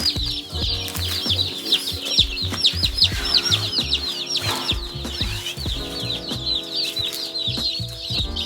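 A crowd of day-old meat-bird chicks peeping: a dense, continuous chorus of short, high, falling peeps, many a second and overlapping.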